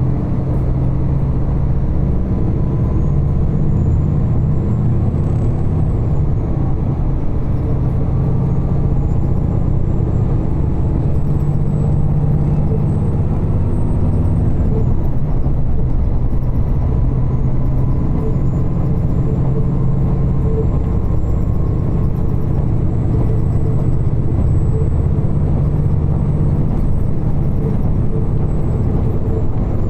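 Diesel railcar running at speed, heard from inside the passenger cabin: a steady low rumble of engine and wheels on rail, with a faint high whine that slowly rises and falls.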